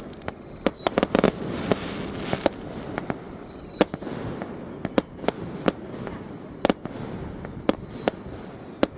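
Fireworks going off: a fast, irregular string of sharp bangs and pops, with a high thin whistle that slides slowly down in pitch again and again behind them.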